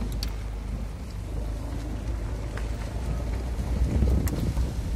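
Heavy rain falling, with wind rumbling on the microphone and a few sharp ticks; the rumble gets louder in the last second or so.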